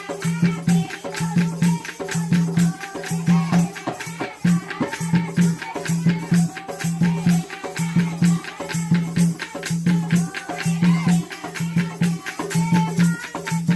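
Jakdi folk music: a low drum beat repeating steadily about twice a second under constant jingling rattle percussion, with a wavering melody line running above.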